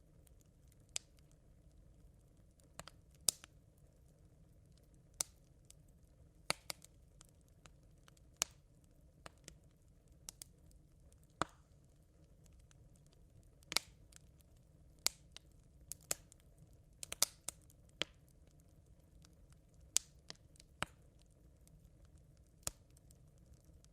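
Smouldering campfire embers crackling: sharp, irregular single pops and snaps, roughly one a second, over a faint steady low rumble.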